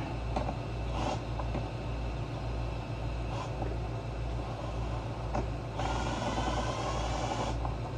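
Hand work on a generator's plastic housing: a few light clicks and knocks, then nearly two seconds of denser rasping noise about six seconds in, over a steady low hum.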